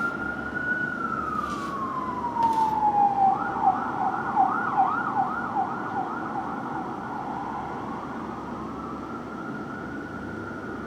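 Fire engine's electronic siren sounding while responding: a slow wail falls, switches to a fast yelp of about three sweeps a second for several seconds, then goes back to a slow rising wail, over the engine and road noise of the passing trucks.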